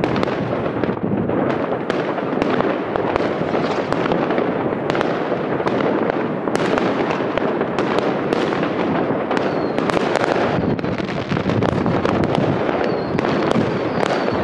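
Many fireworks going off at once: a continuous din of overlapping bangs and crackles, with sharp reports throughout and a few faint high whistles in the second half.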